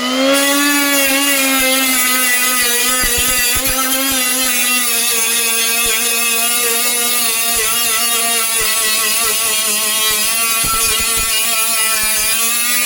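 HILDA mini 3-inch brushless cordless angle grinder running at full speed for sanding, a loud steady high whine whose pitch wavers slightly as the disc is worked against the metal.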